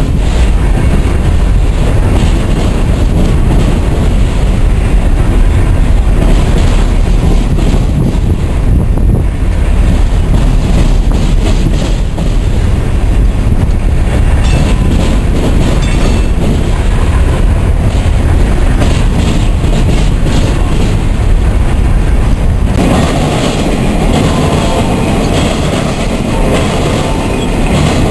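A Norfolk Southern Triple Crown RoadRailer train, highway trailers riding on rail bogies, rolling past with a loud, steady rumble of wheels on rail. About 23 seconds in, the deep rumble eases and the sound turns thinner as the train draws away.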